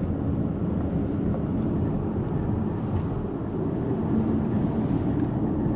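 Steady low engine and road rumble of a car being driven.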